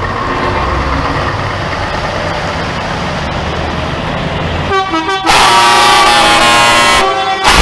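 Truck engines running past, then loud multi-tone truck air horns blasting from about five seconds in, cutting out briefly near the end and sounding again.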